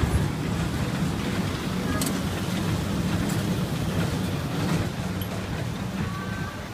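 Small park ride train running, a steady low rumble with a sharp click about two seconds in.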